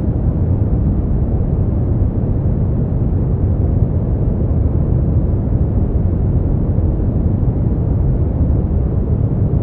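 Brown noise: a steady, deep rumbling hiss with its weight in the low end, even and unchanging throughout.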